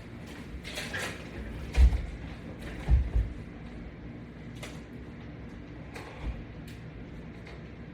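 A few dull thumps and knocks from the resistance-band exercise bar and its attachments being handled and set in position for bench presses, the loudest about two and three seconds in.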